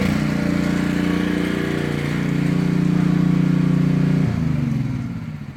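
A motor-driven machine running steadily, then switched off about four seconds in, its pitch sinking as it winds down and fades.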